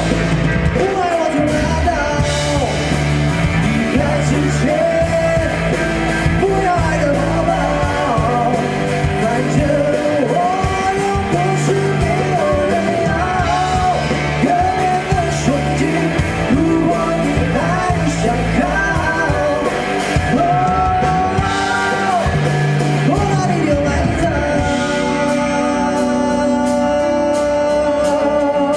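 A male singer singing a Mandopop ballad in Mandarin over a band with a stepping bass line; in the last few seconds the voice drops out and sustained chords carry on.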